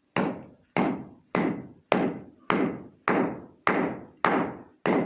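A steady series of heavy knocks, nearly two a second, each dying away before the next.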